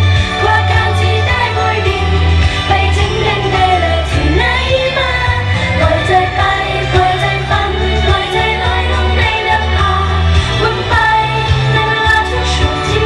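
Thai pop song performed live: women singing together over a band backing track with a heavy steady bass.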